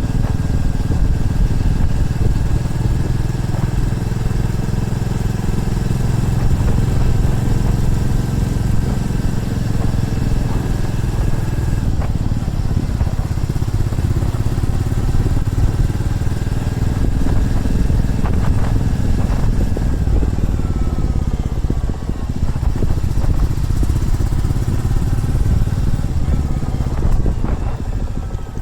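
Motorcycle engine running on the move, its note shifting in pitch with speed, falling about two-thirds of the way through.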